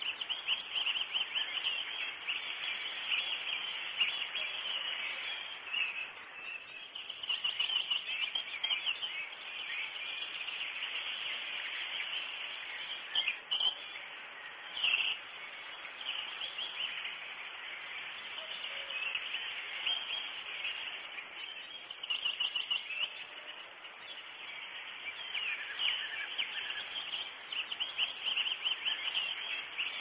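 Birds chirping and calling over a steady high-pitched background hiss.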